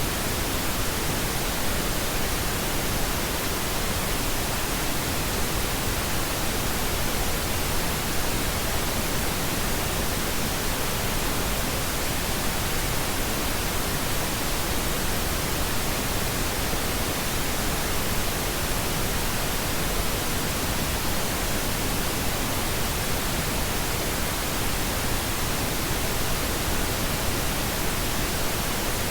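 Steady synthetic pink noise: an even, unchanging hiss spread across the whole range, with no events or variation.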